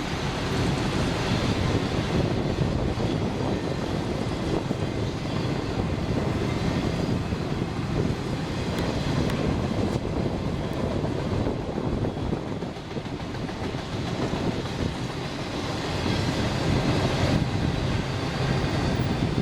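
CSX freight train rolling past, its cars' wheels running steadily on the rails.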